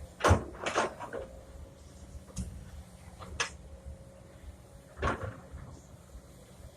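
Irregular knocks and clunks, about six of them, the loudest two in the first second, over a faint steady hum.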